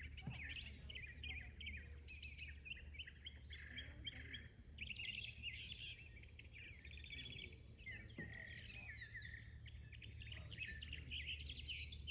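Many small birds chirping at once, a dense overlapping chorus of short high chirps, with a high buzzy trill for about two seconds near the start. A steady low hum runs underneath.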